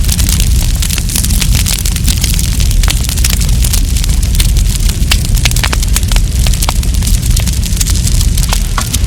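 Campfire burning: wood crackling with frequent sharp pops over a steady low rumble.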